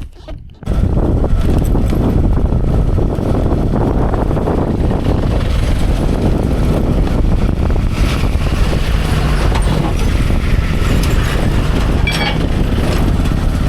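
Strong wind buffeting the microphone on a moving motorcycle, a loud steady rush with the bike's engine running underneath, starting abruptly about a second in.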